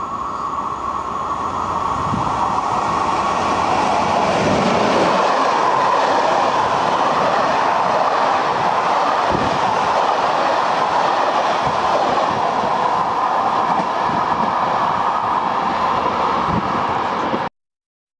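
Belgian passenger train running past along the platform: a steady rumble and rush of wheels on rail that grows over the first few seconds as it nears, with a few wheel clacks over rail joints. It cuts off suddenly near the end.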